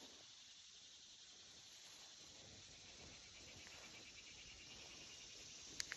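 Near silence, with crickets chirping faintly in the background and one small click just before the end.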